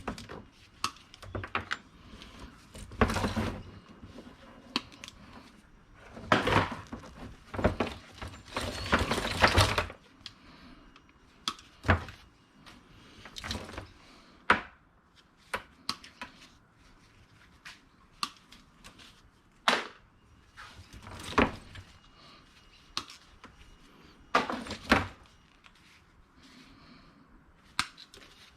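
Hard scrap items knocking and clattering as they are handled and sorted, with scattered sharp clicks and knocks and a few longer rattling stretches, the longest a few seconds from about six seconds in.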